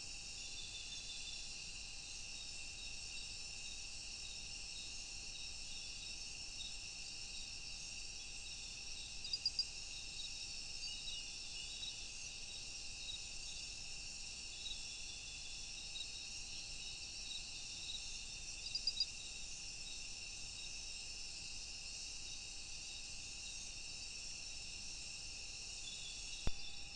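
Rainforest insect chorus: a steady, dense high-pitched buzzing and trilling from many insects, with a short burst of rapid chirps twice, about nine and nineteen seconds in. A sharp click near the end.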